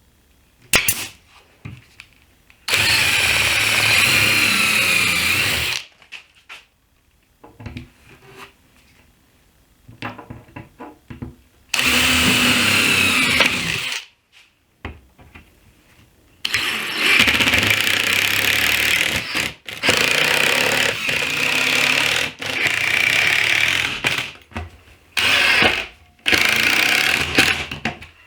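Power drill drilling pilot holes and driving screws into cabinet panels, in repeated runs of one to three seconds with pauses between, its motor pitch shifting within each run. A single sharp snap comes about a second in.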